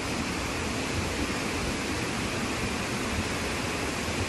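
Heavy monsoon rain falling steadily: a constant, even hiss with no let-up.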